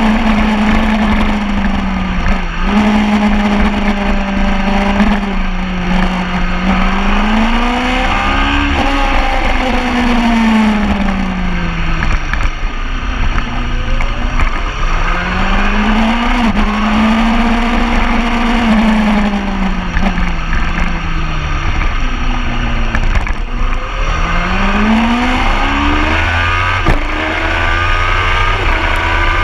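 Sport motorcycle engine running hard around a racetrack. Its pitch climbs and falls in long sweeps as the bike accelerates and slows, with brief sharp dips like gear changes, over steady wind and road noise.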